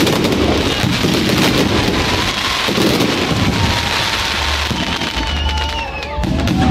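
Fireworks display: dense crackling from bursting crackle-star shells over a low rumble of booms. In the second half, whistles slide slowly down in pitch.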